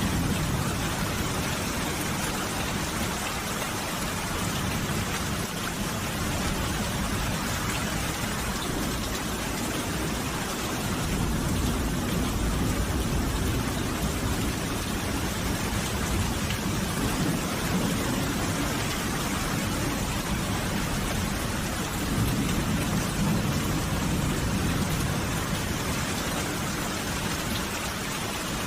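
Steady rain falling in a dense, even hiss. Low rumbles of thunder swell up about a third of the way in and again later.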